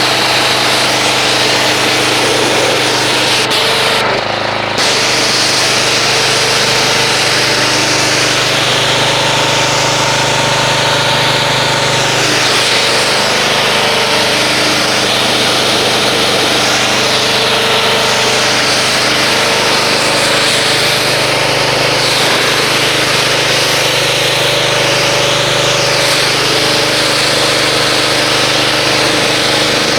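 Pressure washer running and spraying rinse water, with a steady motor or pump hum under a loud hiss of spray. The spray cuts out briefly about four seconds in, then carries on.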